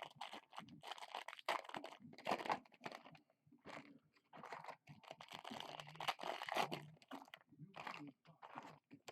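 Foil trading-card pack wrappers being torn open and crinkled by hand, in irregular bursts of tearing and crackling.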